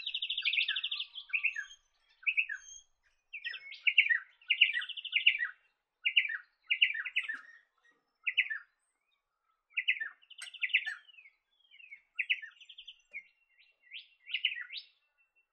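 Small birds calling in a busy run of short buzzy trills and sharp chips, with a thin high whistle near the end.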